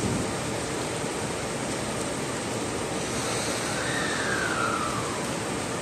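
Heavy rain of a sudden downpour falling in a steady hiss, with a faint falling whine about four seconds in.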